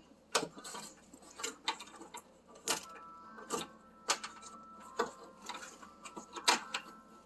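Irregular clicks and light plastic rattles of wire-harness connectors being handled and pushed into their sockets on an electric oven's wiring.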